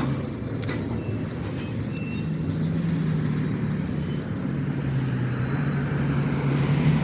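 Diesel engine of a GP-series switcher locomotive running under load while moving a string of tank cars, a steady low drone that grows louder near the end.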